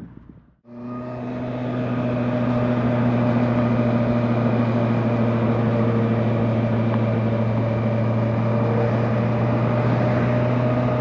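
Honda CB650R inline-four motorcycle engine heard from the rider's position, cutting in abruptly about half a second in, swelling over a second or so, then running steadily at a constant pitch as it cruises.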